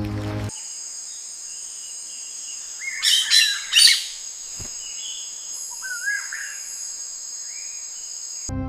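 Birds calling over a steady high-pitched hum. There is a loud flurry of calls about three seconds in and a few swooping chirps around six seconds. Soft music stops about half a second in and comes back near the end.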